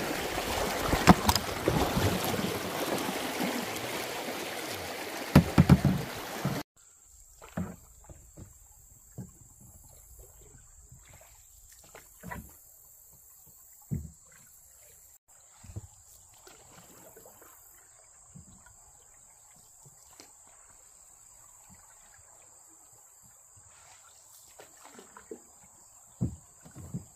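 Rushing river water with wind buffeting the microphone and a few sharp knocks from a canoe running through moving water. About six and a half seconds in it cuts suddenly to a quiet riverbank, where insects, likely crickets, keep up a steady high drone and a few soft knocks come now and then.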